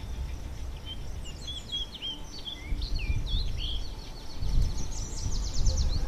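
Wild birds chirping in the open: a run of short chirps that slide up and down in pitch through the middle, then a fast trill of rapid notes rising in pitch near the end, over a low background rumble.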